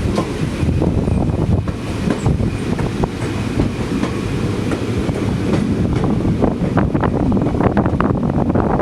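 Passenger train running along the track, heard from on board: a steady rumble with many irregular wheel clicks and knocks, and wind buffeting the microphone.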